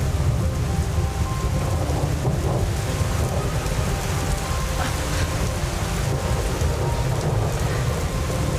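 Heavy rain falling steadily, with a deep continuous rumble underneath.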